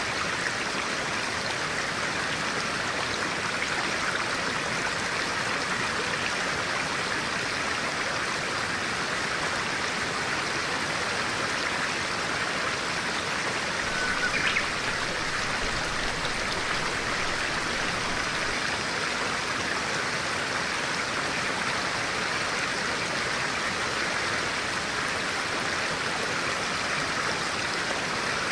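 Clear-water stream flowing steadily, an even rushing of water. A brief short sound stands out about halfway through.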